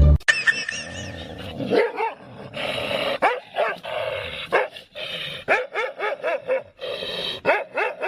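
A dog barking repeatedly in short, high calls, coming in a quick run over the last few seconds.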